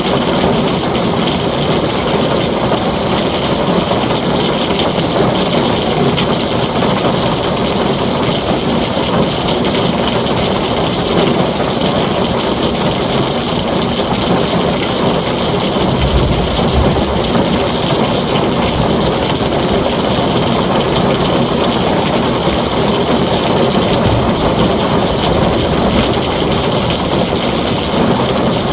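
Heavy rain falling steadily on a tin roof, with a low rumble of thunder a little past halfway.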